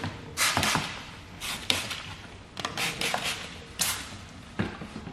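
Squeegee strokes over wet paint protection film on a car's rear hatch: a series of short swishes, about five in a row.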